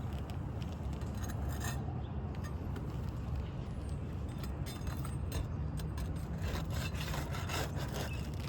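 Asphalt roof shingles and tools scraping and rubbing, with scattered clicks, as a hidden nail is worked free and a damaged shingle is pulled loose. The scraping gets busier near the end, over a steady low rumble.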